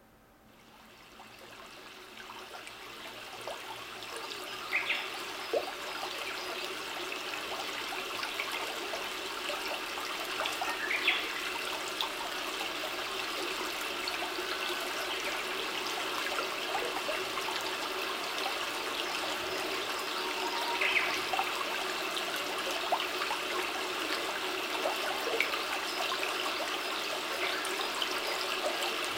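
Logicool R-5 speakers, with their stock amplifier solder, playing back a steady water-like rushing noise. It fades in over the first few seconds, and a few short high chirps sound through it.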